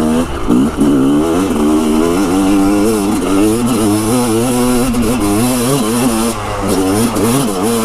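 Dirt bike engine running under way, its revs rising and falling repeatedly as the throttle is worked.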